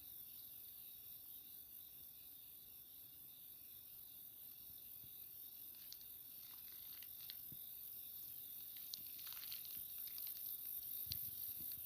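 Night insects: crickets chirping over a steady high-pitched insect drone. From about halfway through, scattered faint clicks and ticks join in.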